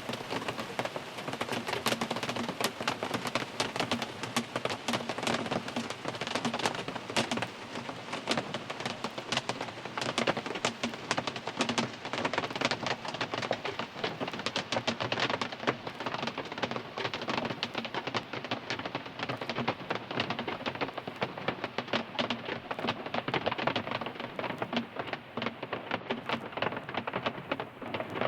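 Rain drumming on a car's roof and windows, heard from inside the cabin: a dense, steady patter of drops.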